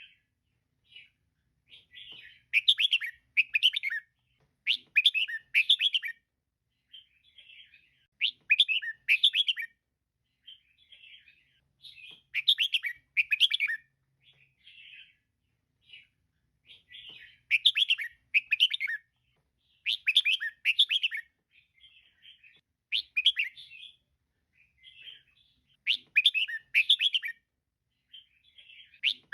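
Female red-whiskered bulbul calling: short, bright chattering phrases of a few quick notes, repeated every two to four seconds, with softer single notes in between.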